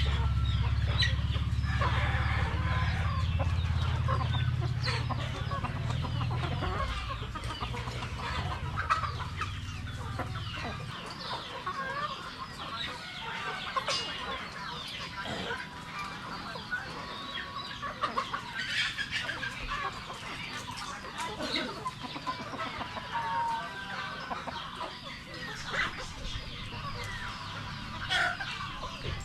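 A flock of Rhode Island Red chickens clucking continuously, many short calls overlapping. A low rumble sits underneath for the first ten seconds or so, then stops.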